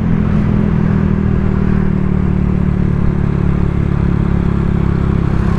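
Honda Vario 125 scooter's single-cylinder engine running through an aftermarket TZM-style 'standar racing' exhaust at a steady cruise, an even, deep note with no change in revs.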